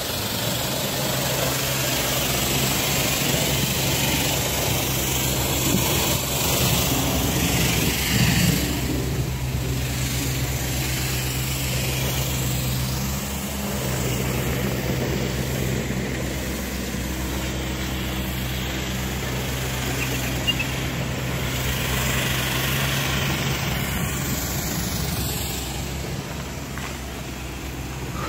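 Dodge Viper RT/10's 8.0-litre V10 running steadily through its side-pipe exhausts, a low even note with a brief swell about eight seconds in.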